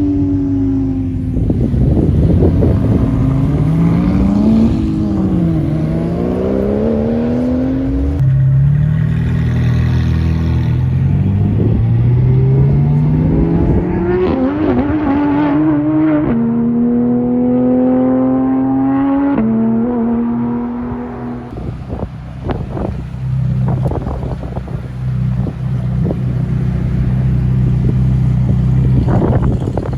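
Sports car engine revving up and down, then accelerating hard, its pitch climbing and dropping at gear changes about 16 and 19 seconds in. After that an engine runs steadily lower, with a few sharp pops.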